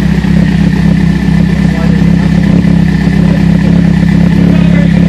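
Mitsubishi Evo X's freshly built 2.0-litre 4B11T turbocharged four-cylinder idling steadily, heard at the exhaust tip, on its first startup after the rebuild and still untuned.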